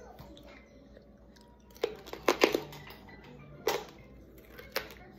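Close-up eating sounds: a handful of sharp crunches and clicks while chewing fried fatback, loudest in a quick cluster about two seconds in, with single ones near four and five seconds.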